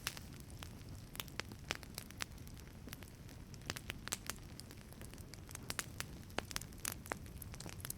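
Wood fire crackling in a wood-fired pizza oven: irregular sharp pops and snaps, several a second, over a low steady rumble of the flames.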